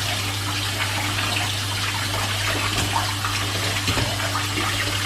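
Kitchen tap running steadily, cold water pouring over freshly drained noodles to rinse them so they don't stick together.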